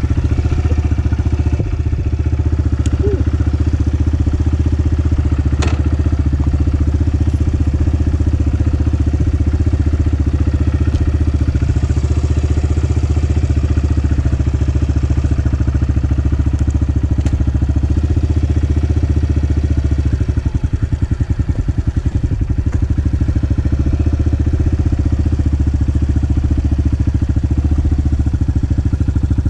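Honda 125 motorcycle engine idling steadily while it warms up after starting. The idle turns briefly uneven about twenty seconds in.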